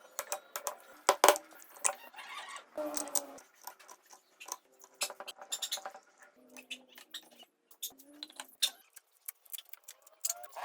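Irregular metallic clinks and taps as small metal parts are handled and set down, some sharp and loud, others light.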